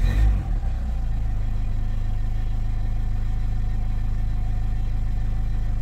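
Renault Clio 4 engine idling steadily at about 1,000 rpm, cold and just started, heard from inside the cabin. A brief low thump in the first second is louder than the idle.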